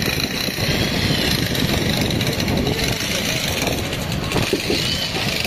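Passenger express train pulling out of a station at low speed: a steady rumble of the moving coaches heard from an open doorway.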